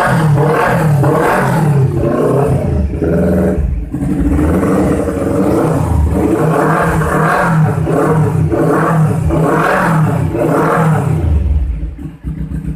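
Kawasaki Z1000 inline-four revved high through an aftermarket racing exhaust, in quick repeated throttle blips, roughly one or two a second. Near the end the revs fall away to a lumpy idle.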